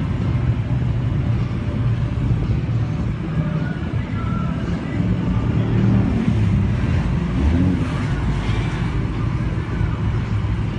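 Car engines idling and rumbling steadily, with a deep low-pitched note that holds without big revs.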